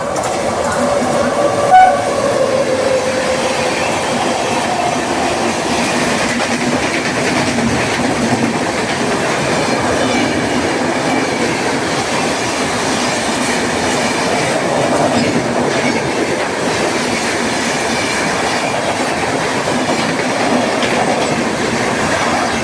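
Express train passing through the station at speed, its wheels clattering in a steady, loud rush. The tail of its horn slides down in pitch over the first few seconds, with one sharp bang about two seconds in.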